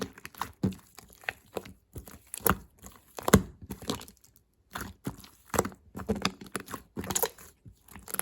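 Slime being squished and worked by hand, making irregular sticky clicks and pops several times a second.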